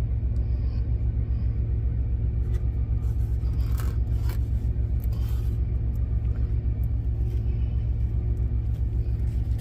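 Diesel truck engine idling steadily: a low rumble with an even pulse. A few faint clicks and scrapes sound over it in the middle.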